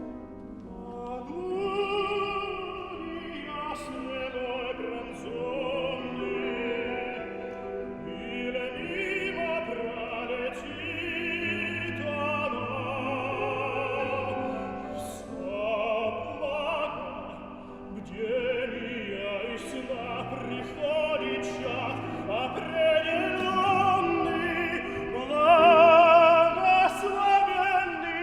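A solo operatic voice singing an aria with strong vibrato, growing loudest on a sustained high passage near the end.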